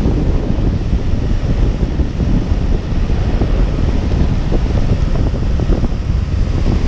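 Heavy wind buffeting the microphone: a loud, steady rumble with no clear tones.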